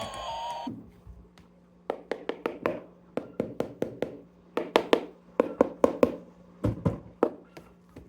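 A falling electronic siren tone cuts off within the first second. Then comes a long run of irregular sharp taps and clicks, several a second, as hands handle something hard.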